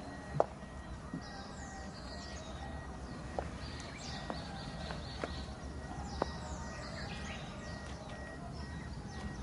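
Outdoor background noise with a steady low rumble, birds chirping now and then, and a scattering of short sharp clicks and knocks, about one every second or so.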